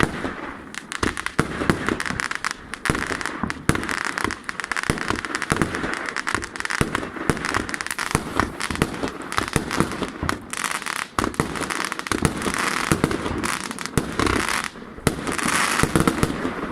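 'Italian Power XXL' firework going off: a dense, unbroken run of sharp bangs mixed with crackling that keeps up throughout and dies away near the end.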